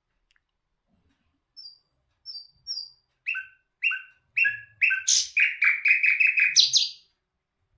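A songbird known as the bulbul hazar dastan sings one phrase. It opens with a few soft, high, separate notes. Louder falling double notes follow, coming faster and faster until they run into a rapid, loud series of notes that stops sharply about a second before the end.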